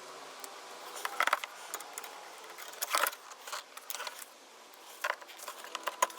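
Small metal parts and hand tools clinking and clattering as they are handled, a handful of sharp clicks spaced a second or two apart.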